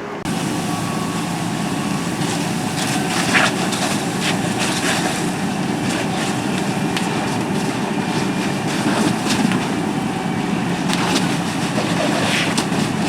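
Steady engine running, with scattered clicks and knocks over it.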